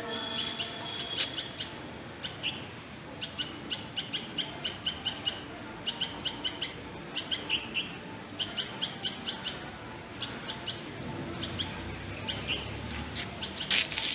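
Small birds chirping: short high chirps come in quick runs of several, with gaps between the runs. A brief loud noise sounds near the end.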